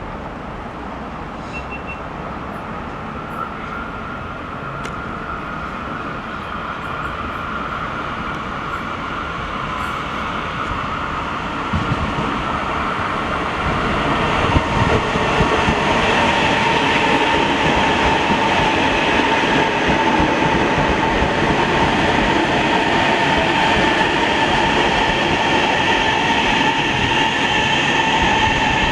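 Passenger train running on rails, growing louder through the first half and then holding steady, with a high steady whine over the rolling noise and a couple of knocks near the middle.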